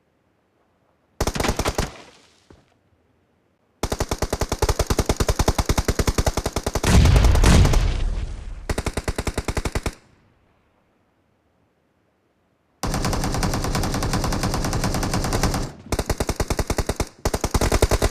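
Video-game automatic gunfire: rapid shots in several long bursts, with a heavier, deeper blast about seven seconds in. The firing cuts off to silence between bursts.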